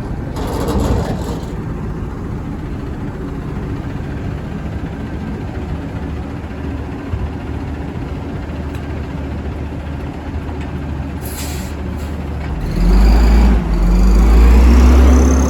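Burrtec garbage truck's diesel engine idling, with a short burst of air hiss about eleven seconds in. Then the engine revs hard, getting much louder with a pitch that climbs steadily to the end.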